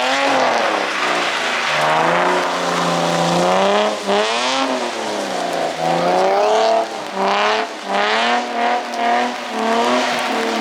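Car engine revving hard while a car is drifted, its pitch rising and falling again and again, with quicker throttle blips in the second half.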